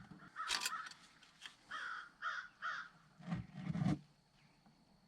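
A crow cawing three times in quick succession, with a sharp knock shortly before and a duller clunk after.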